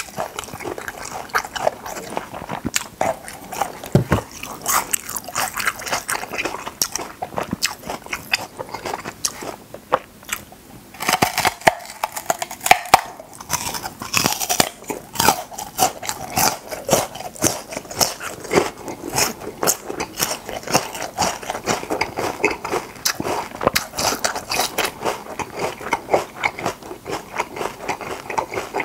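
Close-up crunching and chewing of raw lotus root, the crisp, watery root cracking between the teeth. Around the middle, a bite snaps a fresh chunk off the root, louder than the chewing either side.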